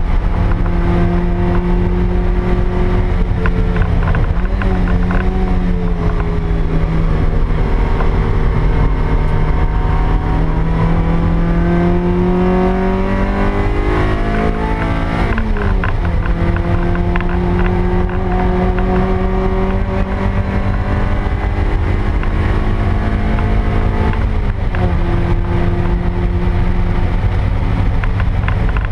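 Stock 1ZZ 1.8-litre four-cylinder of a 2000 Toyota MR2 Spyder, heard from inside the cabin while it is driven hard. The engine note holds steady, dips and recovers about four seconds in, then climbs slowly. It drops sharply with a gear change around fifteen seconds and dips again near twenty-four seconds.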